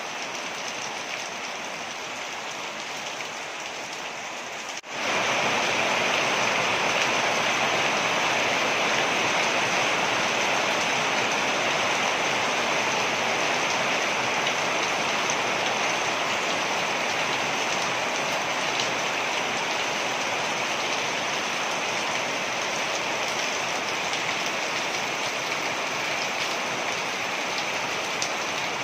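Steady rush of a waterfall's falling water. About five seconds in it breaks off for an instant and comes back louder and brighter.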